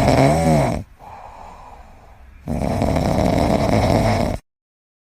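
A pet snoring loudly: a long snore with a brief wavering squeak in it, a quieter breath, then a second long snore that cuts off abruptly about four seconds in.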